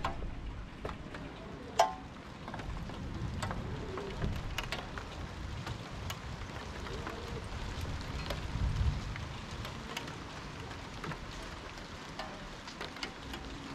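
Rain falling, with scattered drops ticking sharply close by, one louder tick about two seconds in, over a low rumbling background.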